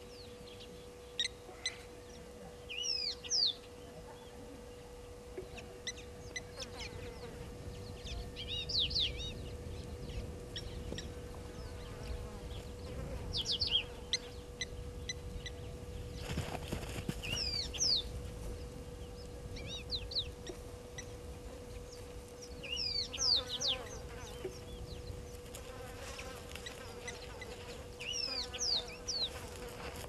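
Small birds calling: clusters of short, high, falling chirps every few seconds, over a steady faint hum.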